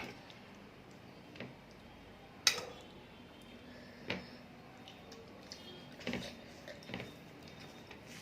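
Eating from a plate: about six scattered clicks and taps, the sharpest about two and a half seconds in, with soft squishy sounds between.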